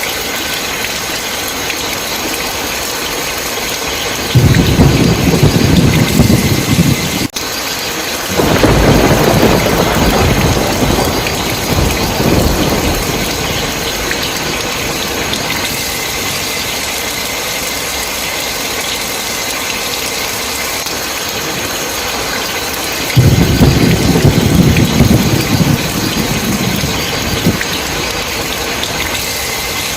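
Heavy rain falling steadily, with rolling thunder three times: about a quarter of the way in, again just after, and once more late on. The sound drops out for an instant between the first two rumbles.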